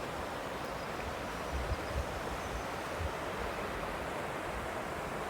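Fast-flowing mountain river rushing steadily, with a few low bumps about one and a half to two seconds in.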